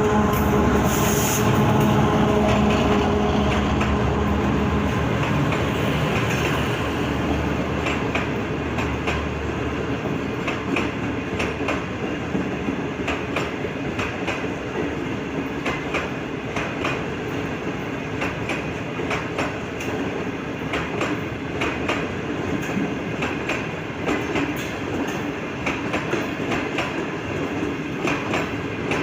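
Passenger train pulling slowly out of a station. A steady locomotive hum fades over the first several seconds, then the coaches roll past with irregular clicks and clacks of wheels crossing rail joints.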